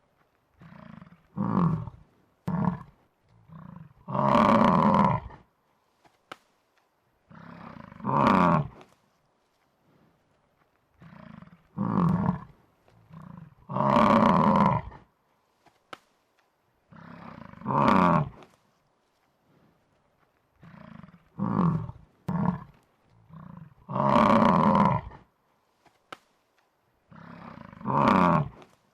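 Buffalo bellowing over and over: a few short calls build into a long, loud bellow of about a second and a half. The same sequence comes back roughly every ten seconds, like a looped sound effect.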